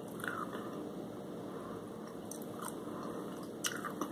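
A person quietly chewing fried shrimp and French fries, with a few soft wet mouth clicks and a slightly sharper one near the end, over a steady background hiss.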